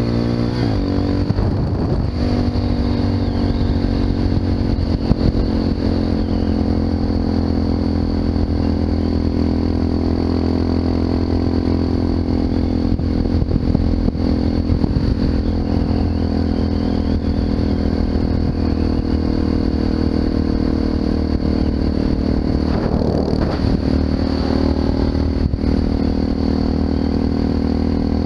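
Honda FMX 650's single-cylinder engine through an Arrow aftermarket exhaust, riding along under way. Its note changes about a second in, then holds steady at a near-constant speed.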